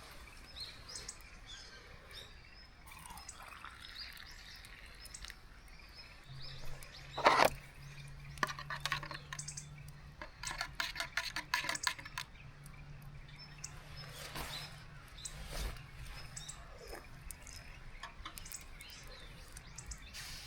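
Small birds chirping now and then. About seven seconds in there is a sharp knock, the loudest sound, followed by a few seconds of rapid clicking, and a low steady hum sets in just before the knock.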